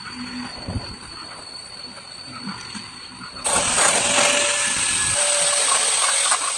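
A faint steady high whine, then a loud steady hiss that starts suddenly about three and a half seconds in.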